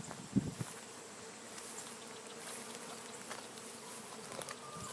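Honeybees buzzing in a steady hum around their hive, with one brief knock near the start.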